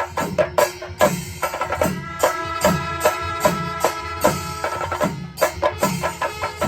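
Panchari melam: an ensemble of chenda drums beating a fast, even rhythm with metallic cymbal strokes. From about one and a half seconds in until about five seconds, a wind instrument holds a steady note over the drumming.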